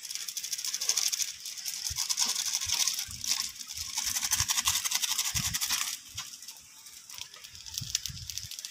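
Rice frying in a hot wok over a wood fire: a steady sizzle with fine crackling that eases off about six seconds in, with a few soft knocks.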